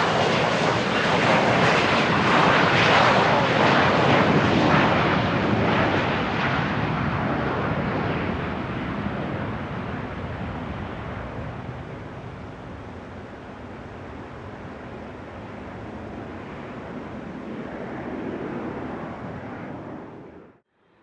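Gulfstream IV business jet with its Rolls-Royce Tay turbofans, a loud jet rush that slowly fades away as the aircraft moves off. The sound cuts off suddenly near the end.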